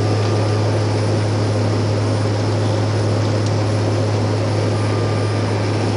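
Airliner cabin noise: a steady drone of the engines and rushing air with a strong low hum, unchanging throughout.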